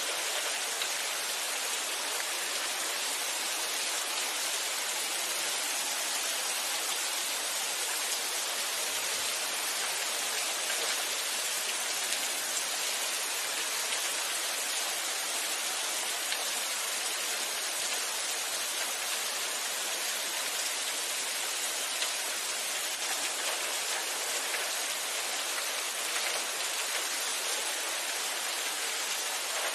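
Steady, even rain falling, a continuous hiss with fine pattering drops.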